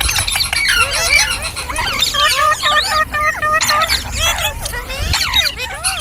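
Ringneck parrot chattering: a fast, unbroken run of short squeaky chirps and calls, each sliding up or down in pitch.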